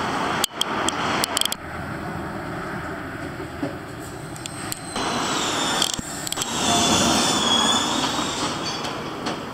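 A train running by with a wavering, high-pitched wheel squeal about seven to eight seconds in. The sound breaks off abruptly several times in the first six seconds.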